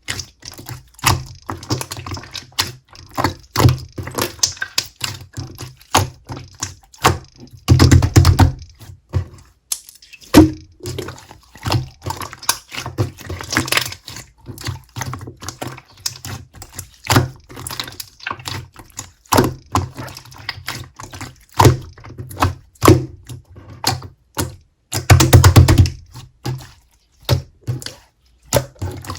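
Clear slime being squished and pressed by hand, making irregular sticky clicks and pops. There are two louder runs of rapid popping, about eight seconds in and again near the end.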